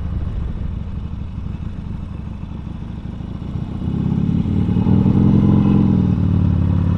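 Harley-Davidson Sportster Seventy-Two's 1200 cc V-twin engine running under way, getting louder and slightly higher in pitch about four seconds in as the bike accelerates, then holding steady.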